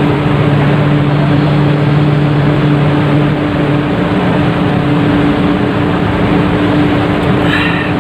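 Steady drone of a ship's engine, a constant low hum under even rumbling noise, as heard on board a ferry.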